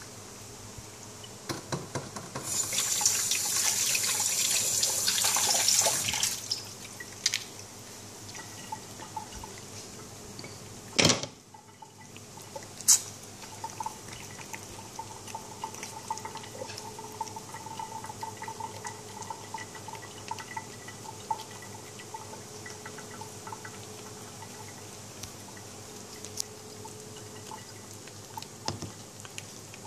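Water running, as from a tap into a sink, for about three seconds near the start, followed by two sharp knocks a couple of seconds apart and faint small sounds.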